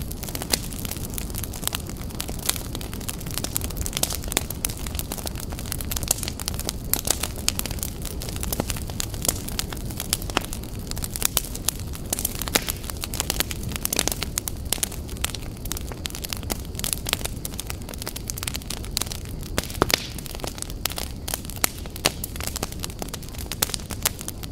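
Fire crackling: a steady low rumble of flames with frequent irregular sharp snaps and pops.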